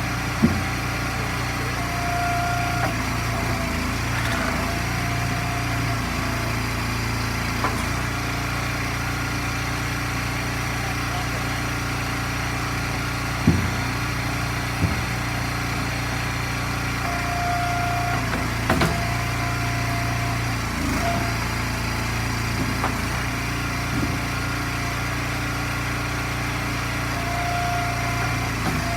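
Gas engine of an Eastonmade hydraulic log splitter running steadily, its note shifting a little as the splitter cycles under load. A few sharp knocks stand out now and then.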